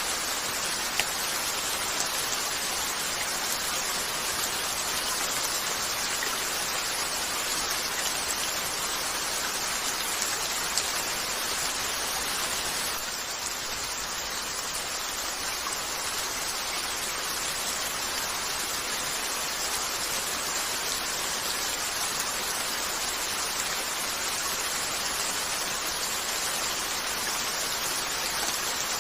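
Steady rain falling, an even hiss that barely changes, with two brief sharp ticks, one about a second in and one about eleven seconds in.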